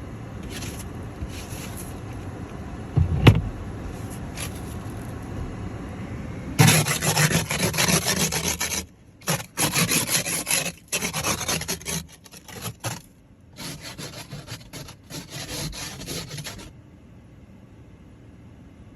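A thump about three seconds in, then bursts of rasping, scraping strokes as snow is cleared off a car, from about seven seconds in until near the end.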